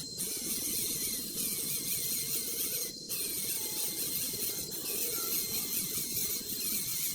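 Nestling birds begging: rapid series of thin, high chirps, several a second, over a steady rushing noise and a faint high whine.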